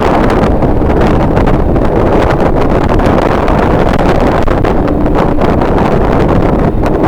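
Strong wind buffeting the camera's microphone: a loud, steady rumbling roar with gusty flutter.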